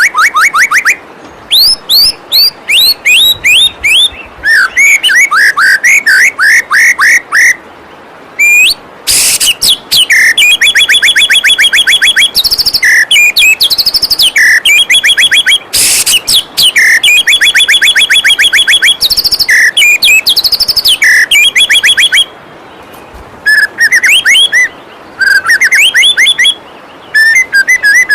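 White-rumped shama singing a loud, varied song: fast runs of repeated chipping notes and sweeping whistles, broken by short pauses, with two brief harsh rasping bursts in the middle. Underneath runs a faint, even rush of flowing waterfall water.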